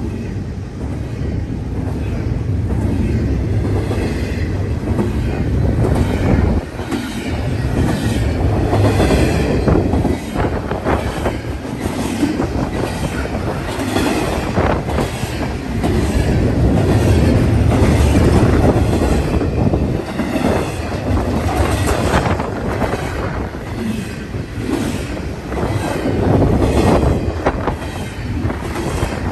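A train rolling past close by, its wheels clacking repeatedly over the rail joints above a steady rumble.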